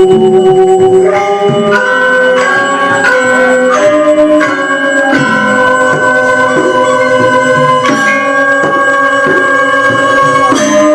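Balinese gamelan music accompanying a Rejang dance: sustained, ringing pitched tones with a fast shimmer, the melody stepping to a new pitch every second or so.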